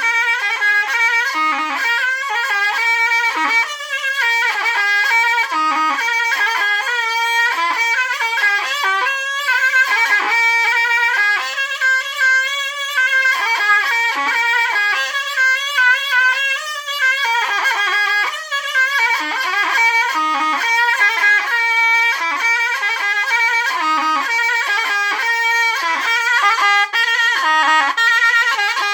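A zurna playing a fast, heavily ornamented folk melody that runs on without breaks.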